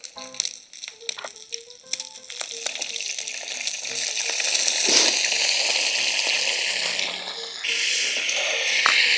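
Food sizzling in a hot oiled pan, the hiss building from about a third of the way in and growing louder after a brief dip near the end.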